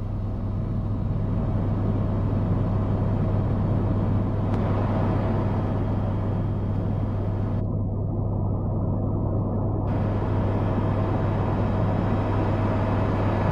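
Tour helicopter in flight, heard from on board: a steady, loud drone of engine and rotor with a strong constant low hum.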